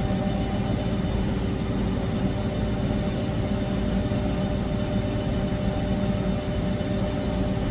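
CNC lathe running a G83 peck-drilling cycle in the air in front of the part, so nothing is being cut: a steady machine hum with several steady tones.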